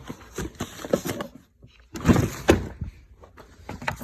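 Irregular clicks and knocks of things being handled, with a short pause about one and a half seconds in and a busier cluster of knocks just after two seconds.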